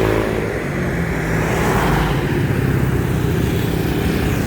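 Motorbike engine running steadily, with road and traffic noise.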